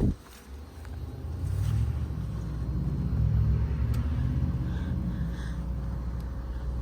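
A running air-conditioning unit gives a steady low hum and rumble with a faint steady whine, rising in level about a second in as it comes close.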